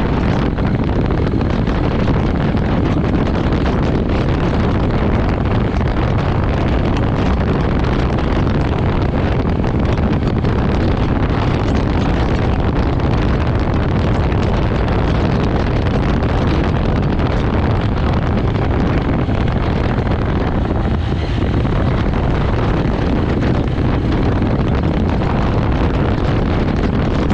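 Jawa motorcycle running steadily on the move, its engine rumble mixed with wind buffeting a bike-mounted action-camera microphone, easing slightly for a moment about three quarters of the way through.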